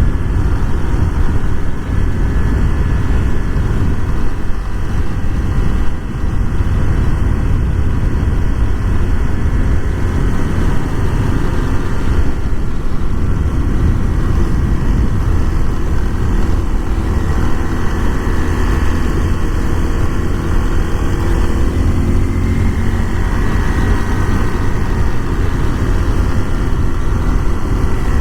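Honda Super Cub 125's small air-cooled single-cylinder four-stroke engine running under way, its exhaust note under a heavy rush of wind on the microphone.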